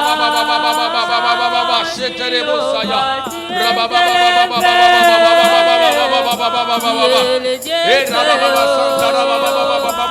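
Worship singing: voices holding long notes and gliding between them, with musical accompaniment.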